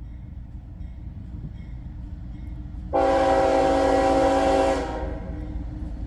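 Locomotive air horn sounding one blast of just under two seconds, a loud multi-note chord that starts and stops abruptly about halfway in, over the low rumble of an approaching freight train.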